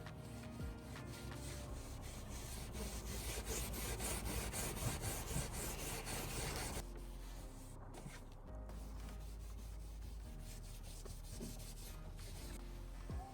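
Hand scraping and rubbing on chemically stripped wood: quick strokes for about the first seven seconds, then softer rubbing, with background music underneath.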